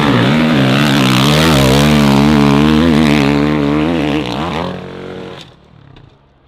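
Off-road motorcycle engine revving hard, its pitch rising and falling with the throttle, then dropping away about five seconds in.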